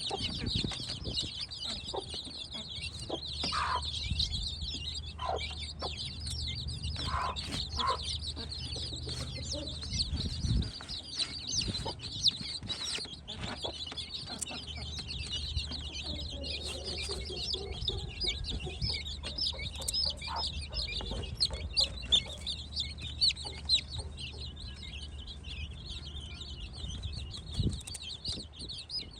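Many Aseel chicks peeping continuously in a dense, high chatter. Scattered sharp clicks from handling are heard over it.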